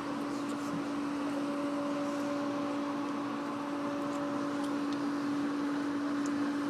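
Cougar helicopter running, a steady hum with a constant droning tone and a second, higher tone that comes in about a second in and fades out past the middle.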